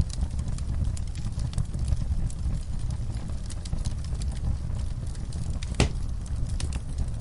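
Fire crackling, with irregular sharp pops over a steady low rumble; one louder pop about six seconds in.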